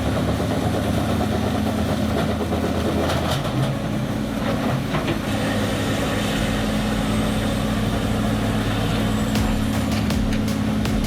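Bandit Beast 4680 horizontal grinder's engine running steadily under load, with scattered sharp cracks and knocks as wood is broken up.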